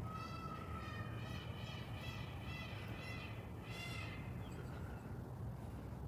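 A bird calling in a run of repeated notes, about two a second, which stops about four seconds in.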